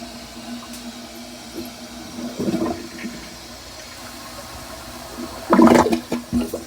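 Glacier Bay dual-flush toilet with its siphon jet blocked, water running with a steady hum and two louder gurgling surges, the second and loudest near the end. The bowl did not siphon on this blocked-jet test.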